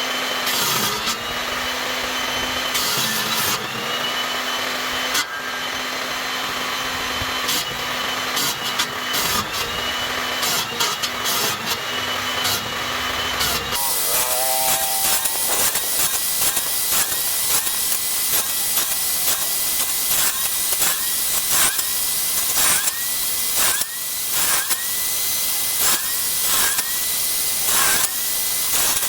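Electric power tools working wood. A motor runs and its pitch sags briefly every second or two as it bites into the wood; about halfway there is an abrupt change to a higher-pitched tool whose tone dips over and over, with many small clicks.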